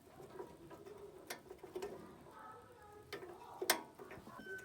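A handful of sharp clicks or taps at irregular intervals, the loudest about three-quarters of the way through.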